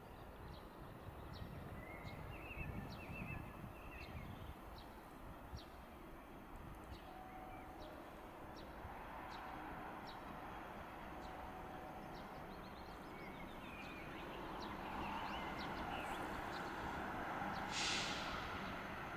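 Distant train approaching the station, its rumble slowly growing louder, with birds chirping throughout. A brief hiss comes near the end.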